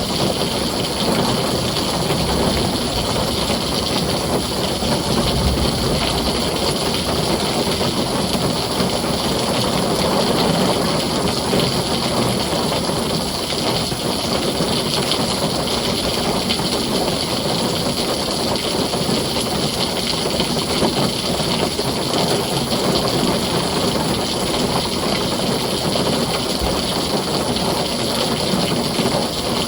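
Heavy rain falling steadily on a tin roof, an even, unbroken hiss and patter.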